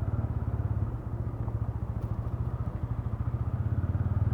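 Single-cylinder motorcycle engine and exhaust running under way, a steady run of low pulses that grows a little louder near the end.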